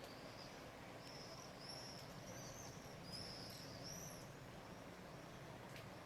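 A small animal's high-pitched chirping calls, about five short notes between one and four seconds in, over a faint steady outdoor background.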